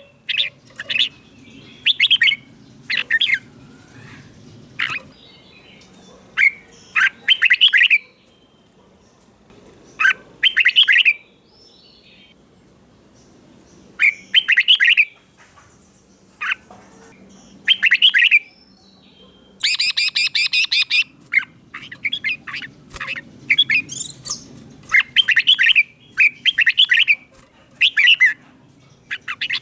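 Red-whiskered bulbul singing short, loud whistled phrases in bursts with pauses between them, including a quick run of notes about two-thirds of the way through.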